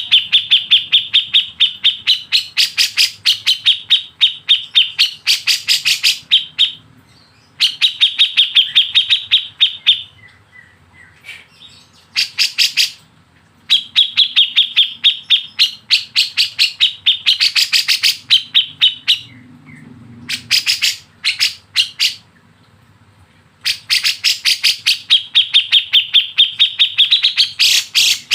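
A bird calling in long rapid runs of sharp repeated notes, about four or five a second, with short pauses between the runs.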